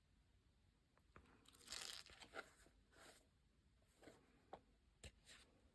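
Faint rustling and scraping of a paper notebook and its cover being handled, with a few light taps.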